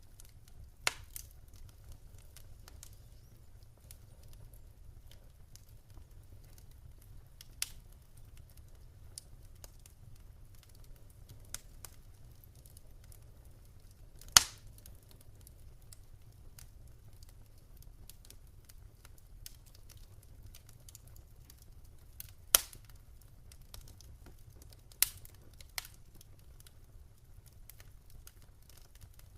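Wood fire crackling in a fireplace: scattered faint ticks and a handful of sharp pops, the loudest about halfway through and again near three quarters, over a low steady rumble.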